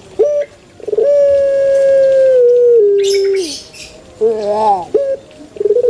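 Puter pelung dove cooing: a short note, then a long drawn-out coo held about two and a half seconds that steps down in pitch at its end, then a shorter wavering coo, with another long coo starting near the end. A brief high hissy rasp sounds in the middle.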